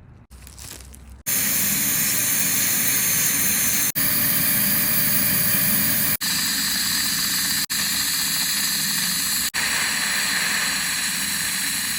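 Dental high-speed air-driven handpiece running: a loud, steady, high whine with hiss that starts about a second in, broken by brief dropouts roughly every two seconds.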